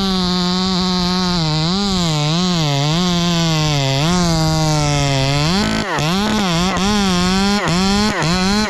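Ported Echo 2511T top-handle two-stroke chainsaw running near full throttle, its pitch dipping and recovering again and again as the chain loads up in the wood. The throttle drops off briefly a little past halfway and again near the end.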